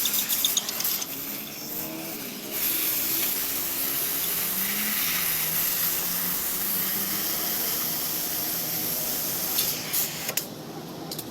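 A steady hiss like a spray gun or aerosol, starting about two and a half seconds in and cutting off near the end, with faint clinks in the first couple of seconds.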